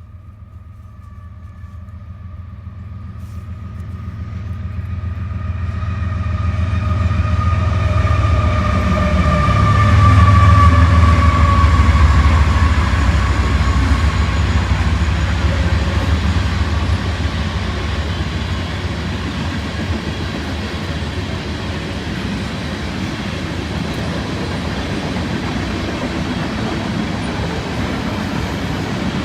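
A train passing close by: a rumble that swells over about ten seconds, with a high whine that slides down in pitch as it goes past, then a steady rolling noise of the cars going by.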